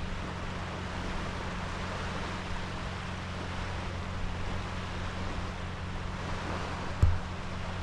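Sea waves washing onto a sandy beach in a steady hiss, with wind rumbling on the microphone and one brief low thump about seven seconds in.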